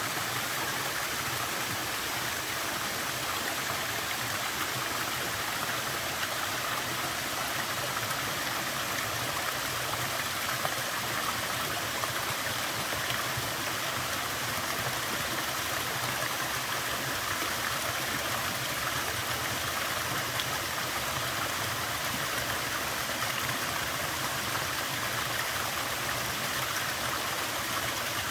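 Small waterfall at fairly low flow: water falling and splashing in a steady, even rush.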